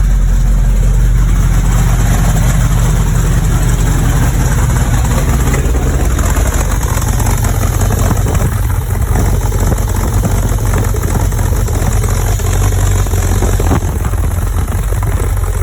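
De Tomaso Pantera's Ford V8, fuel-injected, idling steadily shortly after a cold start.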